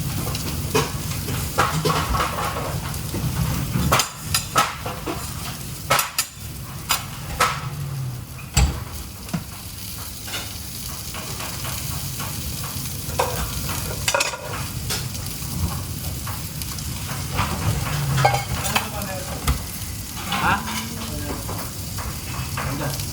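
Food sizzling steadily as it fries, with sharp knocks and clatter of metal kitchen utensils and pans several times, most in the first half and again around the middle.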